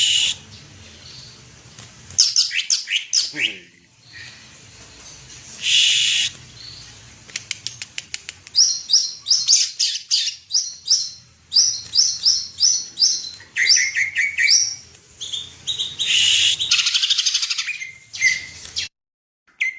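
Green leafbird (cucak ijo) singing loudly and continuously: fast runs of short high whistled notes, falling slurred phrases and harsh buzzy bursts. The song breaks off briefly near the end, then resumes.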